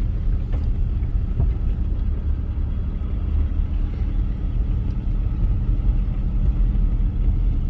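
Steady low engine and road rumble of a 2009 Honda Accord driving over a bumpy road, heard from inside the car, with a couple of faint knocks about half a second and a second and a half in. No squeak or creak comes from the front suspension.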